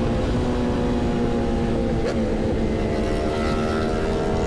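Sport motorcycle engine running at a steady cruise, with wind rushing over the microphone. The engine note drifts slowly lower, with a brief dip in pitch about two seconds in.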